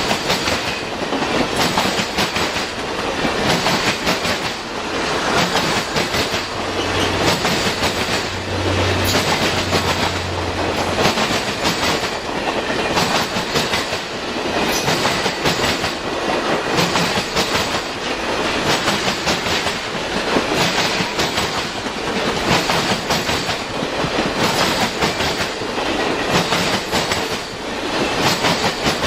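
Circus train cars rolling by, their wheels clicking over rail joints in a steady repeating rhythm over a continuous rumble of the train.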